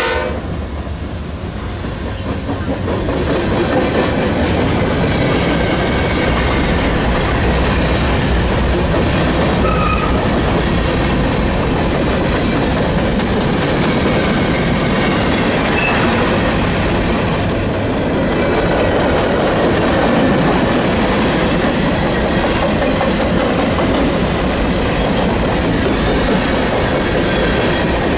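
Freight train rolling past, a steady, loud rumble and rattle of cars and wheels on the rails.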